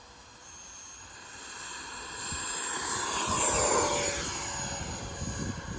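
Radio-controlled model F-16 jet taking off and passing by, a high whine that swells to its loudest a little past halfway and then fades with slightly falling pitch. Wind buffets the microphone near the end.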